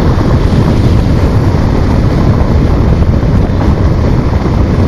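Steady, loud wind buffeting on the microphone of a moving motorcycle, with the bike's running and road noise blended underneath.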